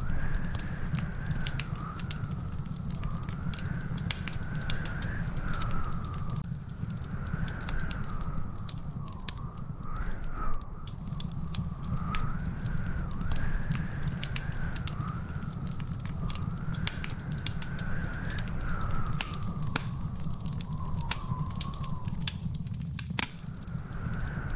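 Wood fire in a fireplace crackling, with frequent sharp pops over a low steady rumble. A faint wavering whistle runs underneath throughout.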